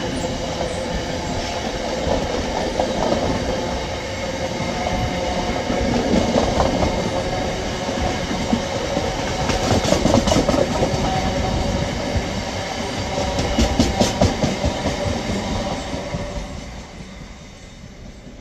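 Drax biomass hopper wagons of a freight train rolling past: steady wheel-on-rail noise with some faint held tones and bursts of wheel clicking about halfway through. The noise fades near the end as the last wagon passes.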